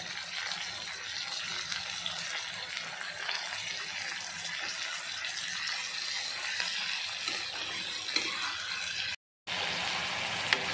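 Shallots, onion, tomato and dried red chillies sizzling in hot oil in a kadai: a steady hiss, broken by a moment of silence about nine seconds in.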